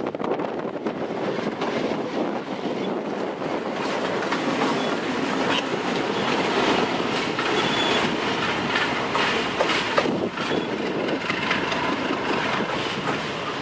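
Diesel freight locomotive hauling freight wagons slowly past at close range while shunting: a dense rumble of engine and rolling stock, with wheels clacking over rail joints and brief high squeals from the wheels. It grows louder toward the middle as the train passes, then eases off.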